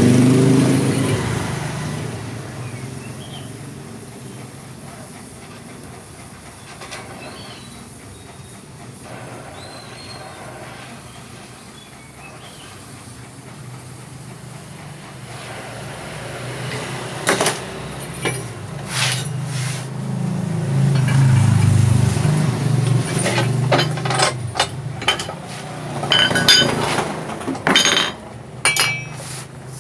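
An engine running loudly and then fading away to a low rumble, which swells again about two-thirds of the way in. From about halfway on, sharp metallic clinks and knocks of metal parts being handled come in, more often near the end.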